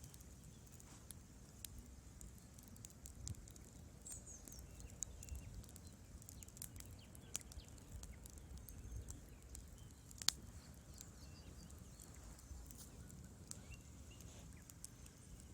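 Wood fire crackling: scattered sharp pops and ticks over a low rumble, with one louder pop about ten seconds in.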